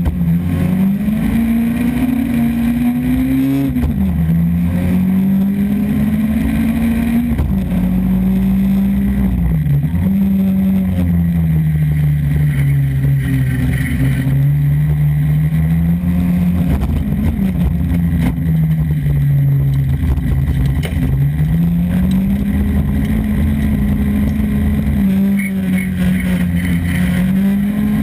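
Engine of a Volvo folk-race car, heard from inside its stripped cockpit, running hard under race load. Its pitch climbs and drops sharply at each gear change, about a few seconds apart at first, then sinks as the driver eases off and climbs again as he pulls out.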